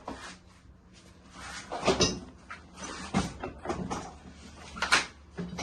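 Hand tools and metal engine parts knocking and clinking as they are handled: a handful of separate clunks, the loudest about two seconds in and again near the five-second mark.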